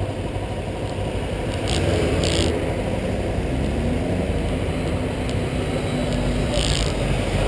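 Motorcycle engine running steadily, a low drone that rises slightly about two seconds in, with three short hisses.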